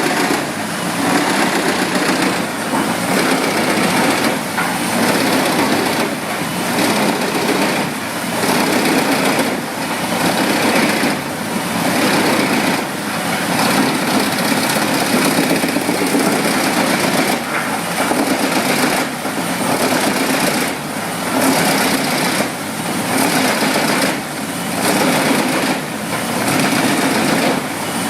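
Wood chipper running under load, a loud continuous mechanical noise that dips briefly about every one and a half to two seconds.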